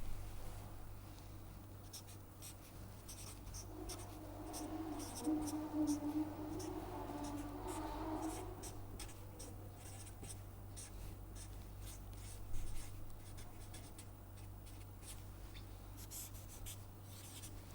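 Faint scratching of a pen writing and drawing, in many short quick strokes. About four seconds in, a low humming tone rises briefly and fades by about nine seconds, over a steady low electrical hum.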